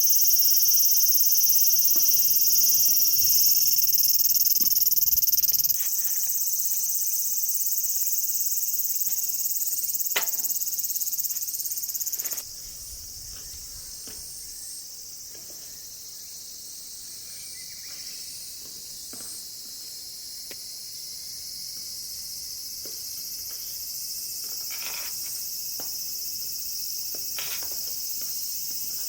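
A chorus of insects chirring steadily at a high pitch, with a few light clicks and knocks. The chorus drops in level twice.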